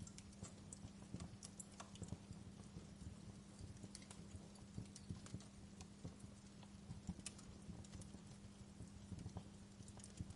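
Wood fire in a fireplace crackling softly, with irregular small pops and snaps over a faint steady low hum.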